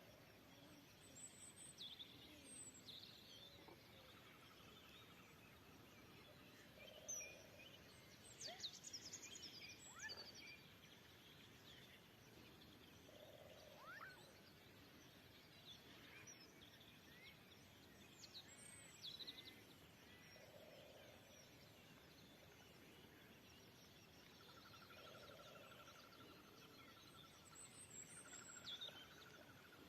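Faint spring birdsong: assorted birds chirping, with quick falling whistles, a low call repeated every few seconds, and a buzzing trill that sets in near the end.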